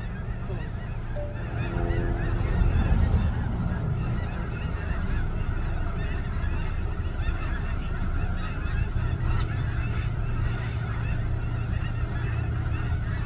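A large flock of snow geese honking, many overlapping calls in a continuous din over a steady low rumble.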